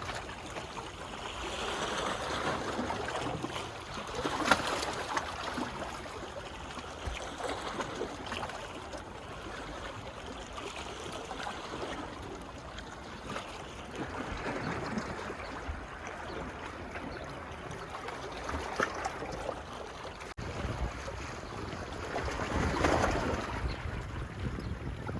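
Small waves washing onto a beach, a steady wash of water that swells every few seconds as each wave comes in, with scattered small clicks.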